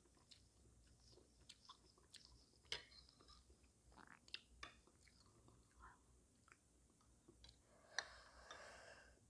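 Faint, close chewing and mouth sounds of someone eating silkworm pupae (bondaegi). A metal spoon clicks lightly now and then against ceramic dishes, the sharpest click about eight seconds in.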